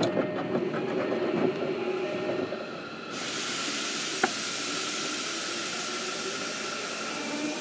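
Inside a JR Kyushu 305 series electric commuter train car: knocks and rattling for the first two or three seconds. Then, from about three seconds in, a steady hiss of air begins suddenly, with faint steady whining tones underneath and one sharp click a little after four seconds.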